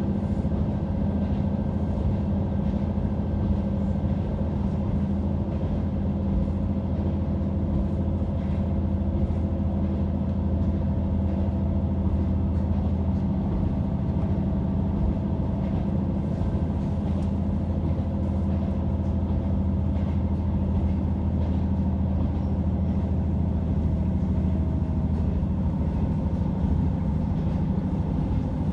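Interior sound of a diesel railcar running at speed: a steady low engine and wheel drone, with a few faint clicks from the rails.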